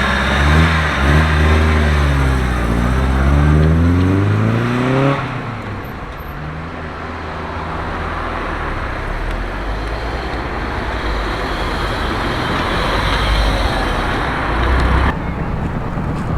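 A car engine accelerating, its note climbing steadily for about five seconds until it cuts off abruptly, followed by steady road traffic noise.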